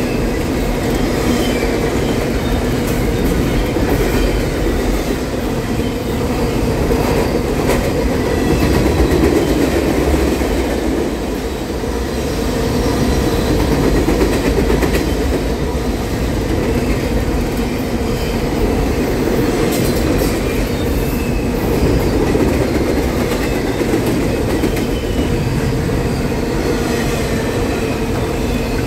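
Double-stack intermodal freight cars rolling past at speed: a loud, steady rumble of steel wheels on rail, with sharp clicks as wheels cross rail joints.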